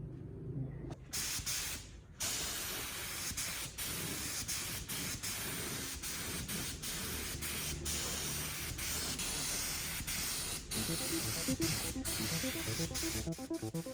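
Pressurised spray hissing, starting about two seconds in and running in long bursts with many brief breaks.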